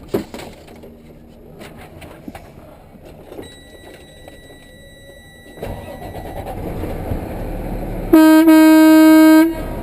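A vehicle horn sounds one steady blast for a little over a second, the loudest thing heard. Before it, a low vehicle engine rumble comes up about halfway through.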